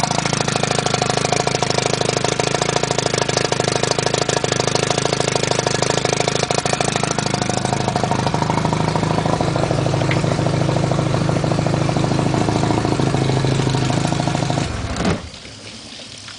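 Johnson Super Seahorse 40 hp two-stroke outboard running at low speed in reverse gear, with a fast even pulsing, then stopping abruptly about 15 seconds in.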